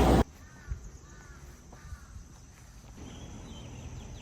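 Loud street noise cuts off abruptly right at the start. Then there are three short, faint animal calls about half a second apart, followed by faint rapid insect chirping near the end.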